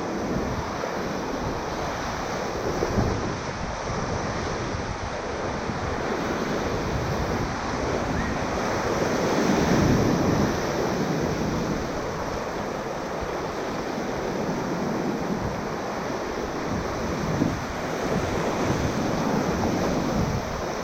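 Rushing whitewater of a river at high water around a raft, a steady wash with wind buffeting the microphone. It swells louder about ten seconds in.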